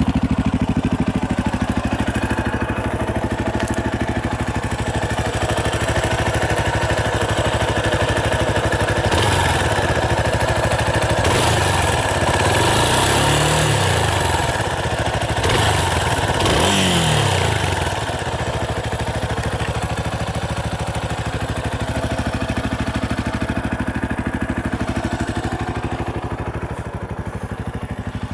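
Yamaha Tricker XG250's air-cooled single-cylinder engine idling, revved up twice in the middle and settling back to idle, run to check the noise after a cam chain tensioner adjustment.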